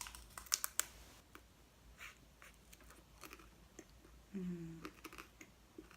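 Close-miked chewing and biting of barbecue chicken and bacon pizza, with sharp wet mouth clicks and smacks scattered throughout. A short closed-mouth hum about four and a half seconds in.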